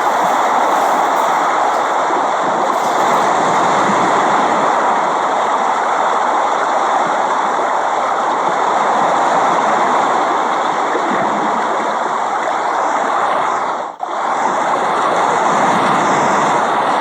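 Steady rain, an even hiss of falling water, that drops out for an instant about three-quarters of the way through.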